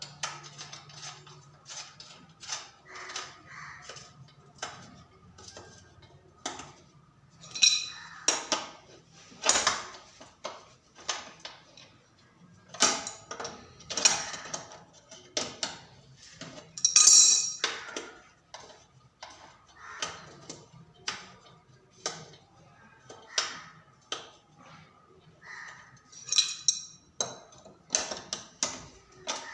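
Hand tools clinking and knocking on metal bicycle parts in irregular taps, some with a short metallic ring. The loudest knock comes about halfway through.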